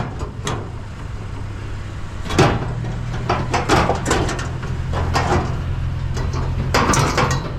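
A series of knocks and clunks, like doors and loaded gear being handled. From about two and a half seconds in, a truck engine hums steadily underneath further clunks.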